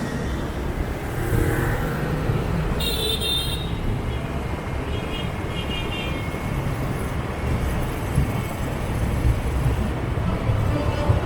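City motorbike traffic heard from a moving motorbike: a steady low rumble of engines and road noise. A brief higher-pitched sound comes about three seconds in, and fainter tones follow a couple of seconds later.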